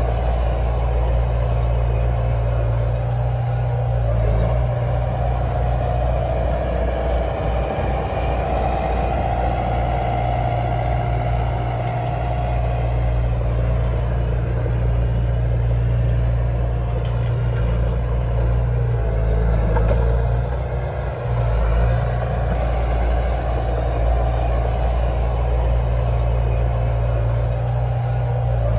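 Komatsu D31 bulldozer's diesel engine running steadily, with a short dip in loudness about twenty seconds in.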